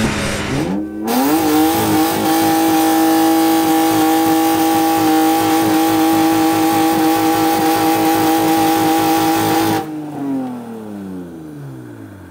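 BMW engine being run hard to overheat it. Its pitch falls and briefly breaks off, then climbs and holds steady at high revs for about eight seconds, then the sound drops off suddenly and the revs fall away.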